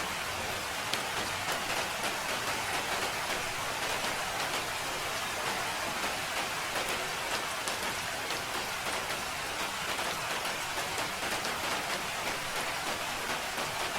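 Steady rain falling, an even hiss of many drops with fine patters of individual drops landing close by.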